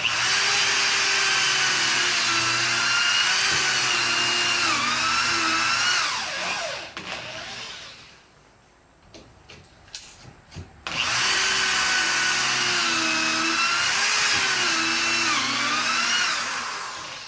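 Electric drill boring pocket holes through a pocket-hole jig in 3/4-inch wood: two runs of about six seconds each, a high motor whine that dips in pitch as the bit bites and then winds down. A sharp click comes between the two runs.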